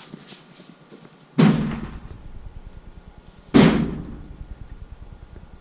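Two heavy bangs on a clothes dryer, about two seconds apart, each with a short low ringing tail, as the machine is struck to scare out a bird trapped in its vent.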